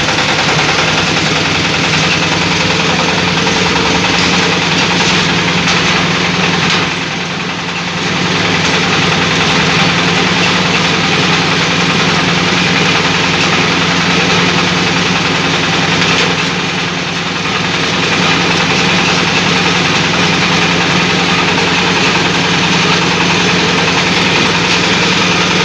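Meat and meatball grinding machine running steadily with a constant mechanical drone, growing briefly quieter twice.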